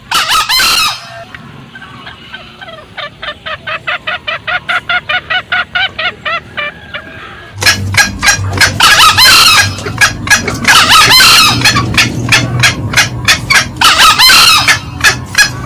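Green junglefowl calling loud, as in a bird-lure recording of male and female cackling. One loud call opens, then a quick run of short clucks at about five a second, then from about halfway a dense stretch of repeated loud cackling calls.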